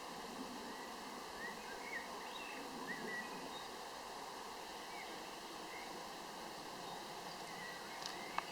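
Songbirds chirping in short, scattered calls over a steady outdoor hiss, with a single sharp click near the end.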